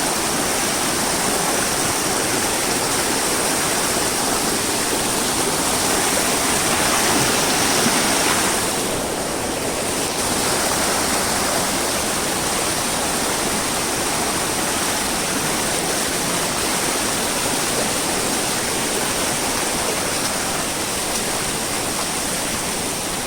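Waterfall: water falling and rushing in a steady, dense noise with no break.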